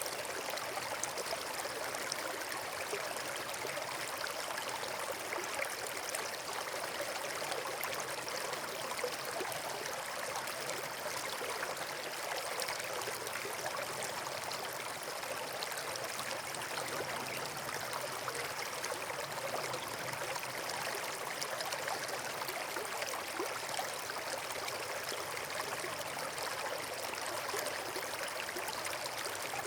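Steady rushing and trickling of flowing water, like a stream or small waterfall, unchanging throughout.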